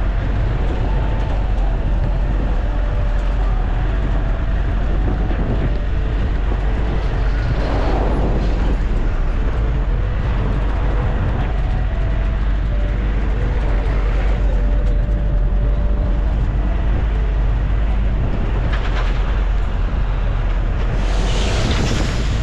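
Train running on the standard gauge railway: a loud, steady rumble, with hissing swells about eight seconds in and again near the end.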